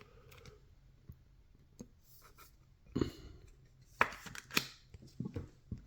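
Baseball trading cards being handled and flipped one at a time: short card-on-card slides and taps, a handful of them, the clearest between about three and six seconds in.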